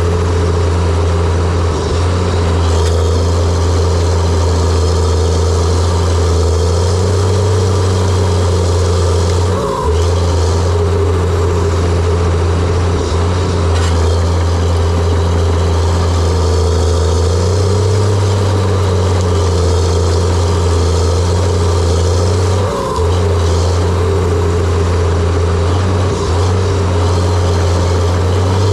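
John Deere 700J-II crawler dozer's diesel engine running steadily, a loud deep drone that dips briefly a couple of times.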